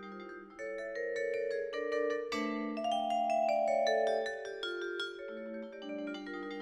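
Music played on mallet percussion in the vibraphone and marimba family: a flowing run of struck pitched notes, each ringing on and overlapping the next.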